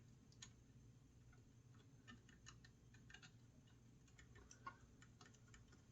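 Near silence with faint, scattered clicks and ticks of small metal parts being handled, as a retaining clip is worked off a router motor's carbon brush holder; one click a little louder about three-quarters of the way through.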